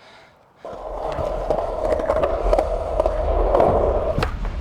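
Skateboard wheels rolling over pavement, a steady rumble that starts about half a second in, with a couple of sharp clacks of the board near the end.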